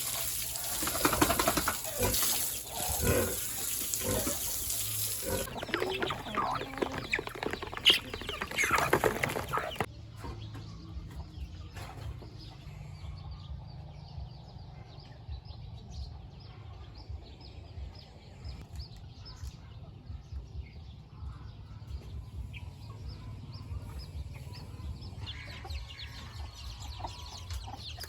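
Chickens clucking, with a burst of wing flapping and scuffling for the first ten or so seconds that stops suddenly; after that, quieter scattered clucks and small clicks.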